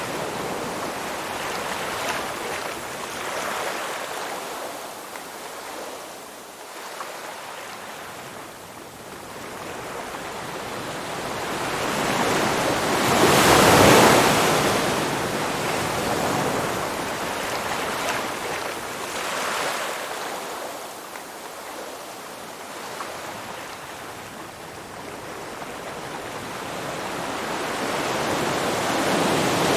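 Sea waves breaking and washing in, in slow surges that swell and fade, the loudest about halfway through.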